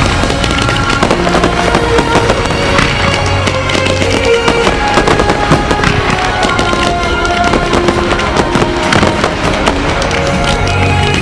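Fireworks bursting in quick succession, many sharp bangs and crackles, over loud music in a pyromusical display.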